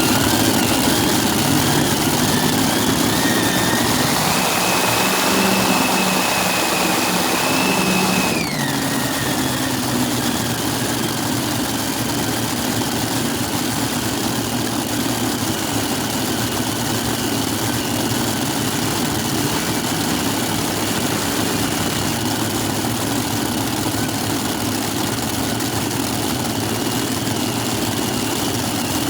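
Four-engine Super Modified pulling tractor warming up, its engines running together. They are brought up in revs for a few seconds with a high whine, then dropped back sharply about eight seconds in, and run on steadily at a lower speed.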